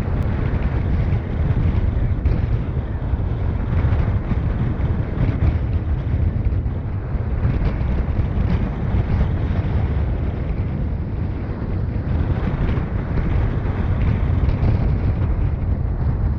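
Wind buffeting the microphone: a steady low rumble of noise that swells and eases slightly, with no distinct events.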